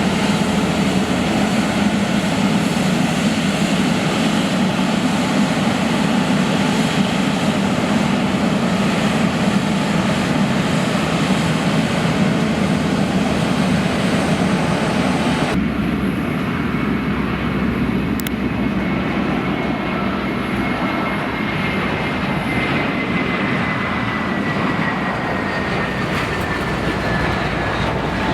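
Jet airliner engines running at high power, a loud steady rush. About halfway through the sound changes abruptly, and the engines' whine then glides slowly down in pitch.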